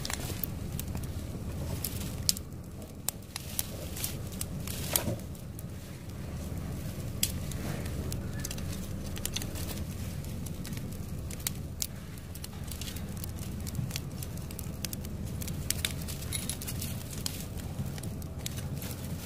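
Wood fire burning in a homemade fire hearth: a steady low rumble with frequent sharp crackles and pops.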